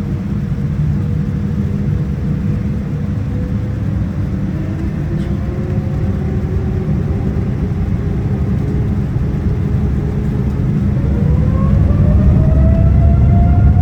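Steady low rumble inside the cabin of a Boeing 787-9 with Rolls-Royce Trent 1000 engines. About eleven seconds in, the engines' whine rises in pitch and the sound grows louder as thrust increases.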